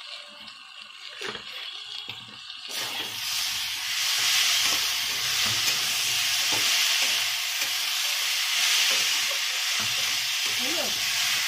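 Potatoes and red lentils sizzling in hot oil in a kadai while being stirred with a spatula. The sizzle turns much louder about three seconds in, as the stirring gets going.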